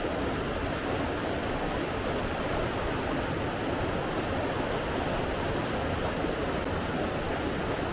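Steady rushing of flowing water, an even unbroken wash of sound with no distinct events.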